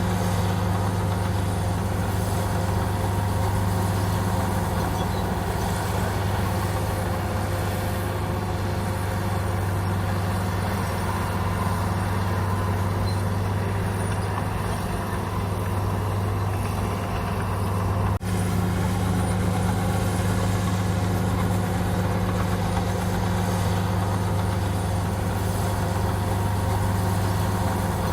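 Komatsu bulldozer's diesel engine running steadily at an even, low pitch, with one brief dropout about two-thirds of the way through.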